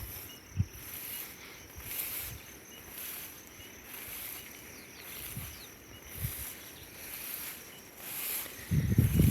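Insects chirring: a high-pitched buzz swelling and fading about once a second over a steady, fast-pulsed trill. A few soft low thumps, and a louder low rumble near the end.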